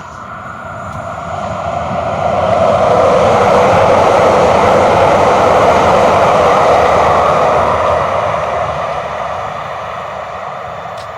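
A vehicle passing by: a steady rushing noise that swells over about two seconds, holds, then fades away toward the end.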